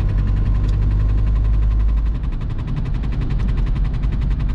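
Inside the cabin of a VW Golf Mk3 1.9 TDI (1Z) cruising in fifth gear: the diesel engine drones low, with its tone shifting about two seconds in, under a rapid, even ticking like a card flapping in bicycle spokes. That ticking comes from the handbrake cable touching the rear tyre.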